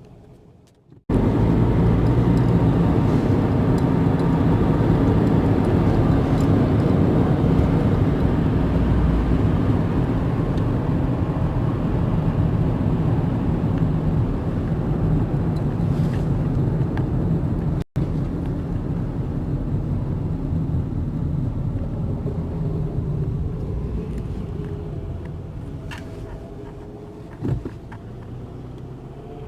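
Steady rush of road and wind noise from a car driving at speed, heard from inside the car. It starts abruptly about a second in, has a brief dropout partway through, and eases off over the last several seconds.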